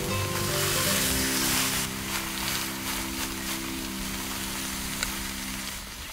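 Food sizzling in a miniature pan, strongest in the first two seconds, over background music with held notes that drops out near the end.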